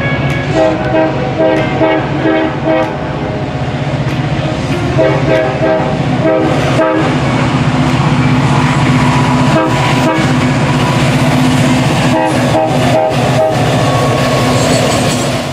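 Amtrak P42DC diesel locomotive sounding its five-chime K5LA horn in repeated blasts, over the engine's steady drone and the clicking of wheels over rail joints.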